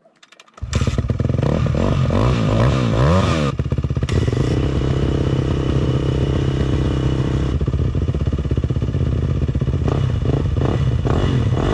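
Dirt bike engine starting up about half a second in, revved up and down a few times, then running steadily.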